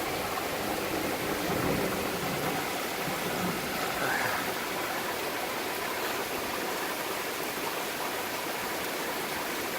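Heavy rain pouring down in a thunderstorm: a dense, steady hiss.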